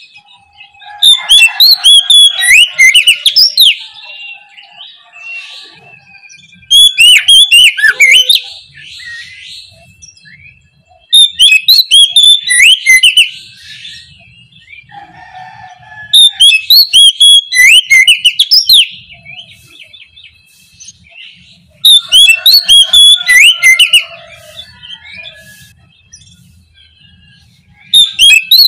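Oriental magpie-robin (kacer) singing in loud bursts of rapid, varied whistles and chatter: five phrases of two to three seconds each, about every five seconds, with fainter bird calls in between.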